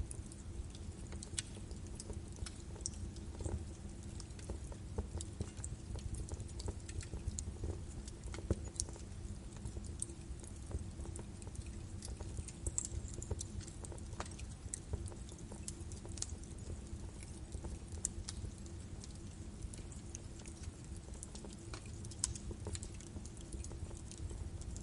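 Birch wood fire burning in a fireplace: a steady low rumble with irregular sharp crackles and pops, several a second, and a faint steady hum underneath.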